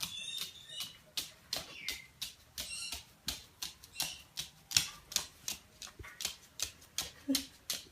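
A bird pecking at a hard surface: a fast, uneven run of sharp taps, several a second, with a few short chirps in the first few seconds.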